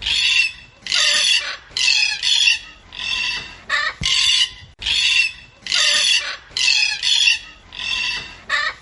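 A chicken squawking repeatedly, about a dozen loud, harsh calls a little under a second apart.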